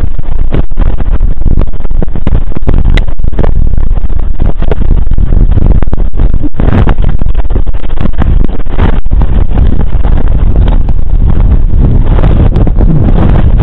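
Loud, constant wind buffeting on a skier's camera microphone during a fast descent, with many short knocks and scrapes through it.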